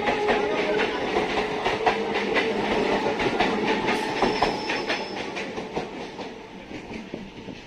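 Electric EMU local train rolling past and moving away, its wheels clicking rapidly over the rail joints under a rumble, with a steady hum in the first couple of seconds. The sound fades steadily as the train draws off.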